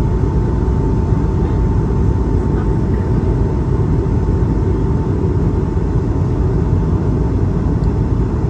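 Steady engine and airflow noise of an Airbus A220-300 with Pratt & Whitney PW1521G geared turbofans, heard inside the cabin. A faint steady whine sits over the low noise and fades out about halfway through.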